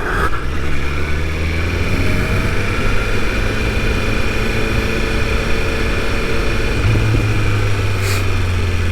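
BMW S1000RR's inline-four engine running steadily at low revs under the rider, heard through a helmet mic with wind noise over it.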